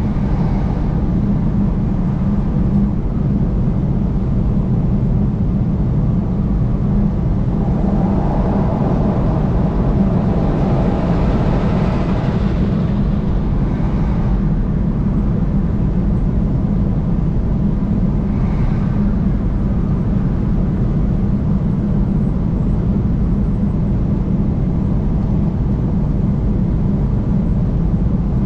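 Steady low rumble of road and engine noise from a vehicle driving on a highway. The noise swells louder for several seconds about a third of the way in, and briefly again about two-thirds of the way in.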